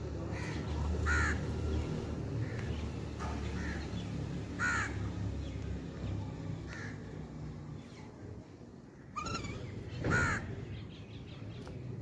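Harsh, caw-like bird calls repeated every few seconds, three of them louder (about a second in, near five seconds, and near ten seconds), over a low rumble that fades out about halfway.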